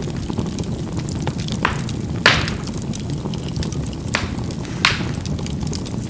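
Charcoal burning in a fireplace: a steady low rush of flame with sharp pops and crackles as the coals burst, the loudest a little over two seconds in and others near the middle and toward the end.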